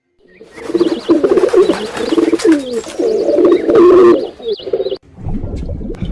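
Birds calling: a dense run of low, repeated calls with wavering pitch lasting about four seconds. It cuts off a little before the five-second mark, and a different low, noisy sound follows.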